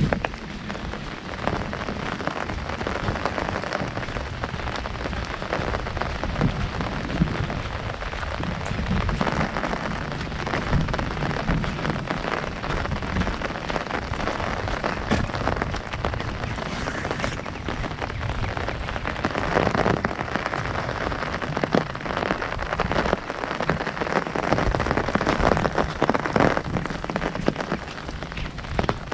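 Heavy rain falling on an umbrella overhead: a dense, steady patter of countless drops, with heavier stretches now and then.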